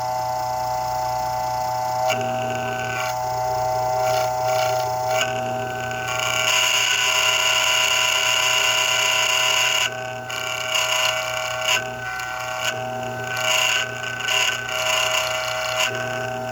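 Fresh'nd-Aire fan's electric motor running with a steady hum and whine, overlaid by a rough, uneven grinding and rattling that gets loudest for a few seconds in the middle and comes and goes near the end: the sound of bad motor bearings.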